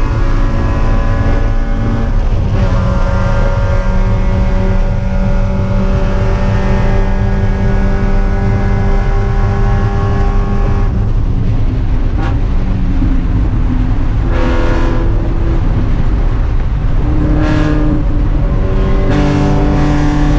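Spec Miata race car's four-cylinder engine running hard at a steady pitch. About halfway through it lifts off and the pitch steps down a few times, like downshifts under braking, then it picks up again near the end.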